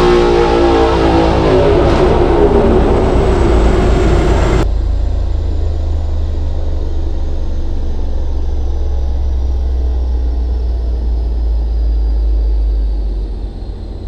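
2017 Mustang GT's 5.0-litre Coyote V8, with headers and catted exhaust, at full throttle on a dyno, its revs climbing until the throttle is shut abruptly about five seconds in. The engine and dyno rollers then coast down with a steady low rumble and a faint, slowly falling whine.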